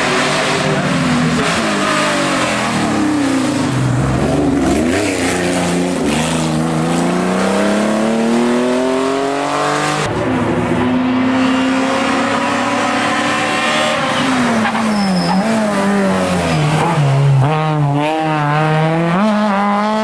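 Historic rally car engines at full load on a special stage, revving up through the gears, then the pitch dropping on braking and downshifts before climbing again. The sound changes abruptly about halfway through.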